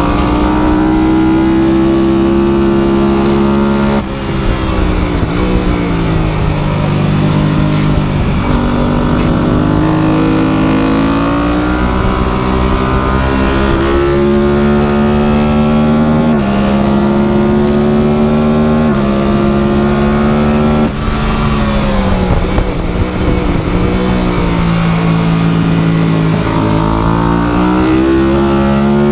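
The ultralight superbike's engine running loud and continuously under load. Its pitch rises and falls, with several sudden jumps up or down along the way.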